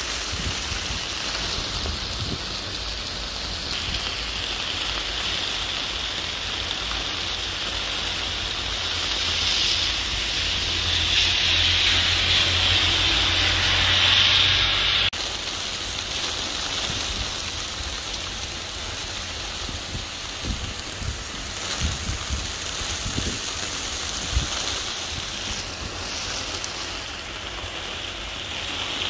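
Heavy rain pouring down on a street, a steady hiss that swells louder for a few seconds before changing abruptly about halfway through.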